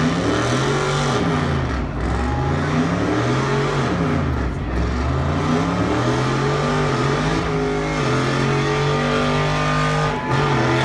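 Dodge Challenger SRT's V8 revved up and down several times, then held at high revs as the rear tires spin into a smoking burnout.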